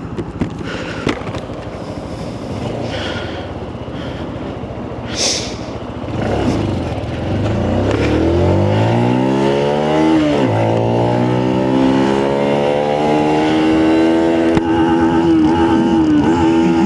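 Benelli BN 125's single-cylinder engine pulling away, its revs climbing, dropping sharply about ten seconds in at a gear change, then climbing again and held high and steady. The gearbox is reluctant to change up, so the engine stays at high revs.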